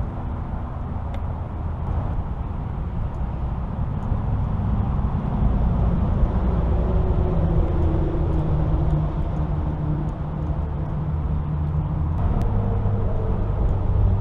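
Motor vehicle traffic, a steady low engine hum with shifting pitch that swells about a third of the way in and again near the end.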